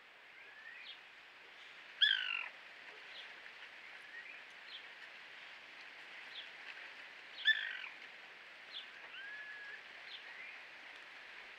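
Birds calling: frequent short faint chirps, with two louder calls, one about two seconds in and another at about seven and a half seconds.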